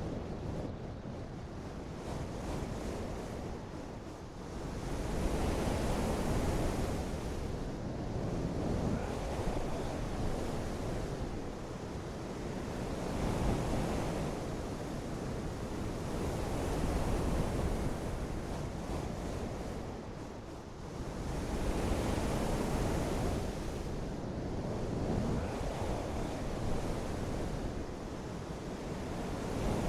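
Rushing water noise that swells and eases every three to four seconds, like surf breaking.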